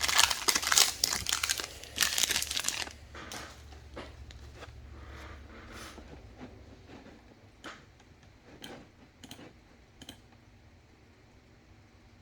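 Trading-card pack wrappers being torn open and crinkled for about three seconds, then quieter scattered taps and rustles as the cards are handled.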